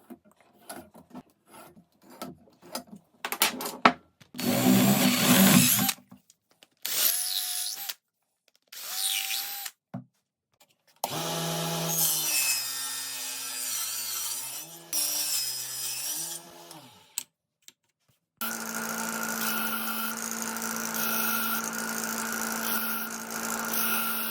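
Woodworking sounds: a run of small wooden taps and clicks, then several short bursts of power tools cutting and drilling wood. Near the middle a motor's pitch wavers as it is loaded, and for the last several seconds a power tool runs at a steady pitch.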